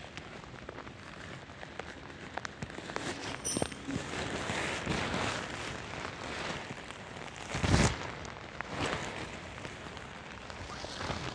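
Heavy rain pattering down, a thick hiss of drops that grows denser about four seconds in. About three quarters of the way through, one loud whoosh, like a gust, rushes over it.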